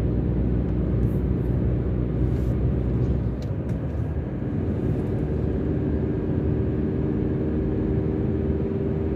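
Car driving along with steady engine and road noise. The low rumble eases a little about three seconds in.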